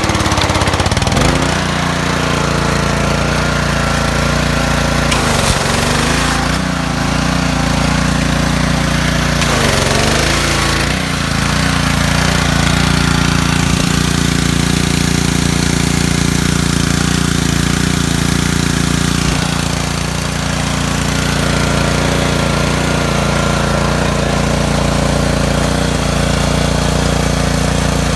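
Honda GCV190 single-cylinder four-stroke engine of a pressure washer, just pull-started on choke, catching and settling within the first second or so, then running steadily with small dips in speed about a third of the way in and again about two-thirds in.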